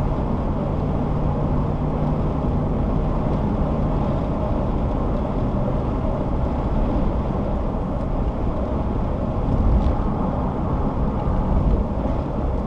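A car being driven at road speed, heard from inside: a steady low rumble of tyre and engine noise. There is a faint steady hum in the first few seconds and a couple of brief louder swells later.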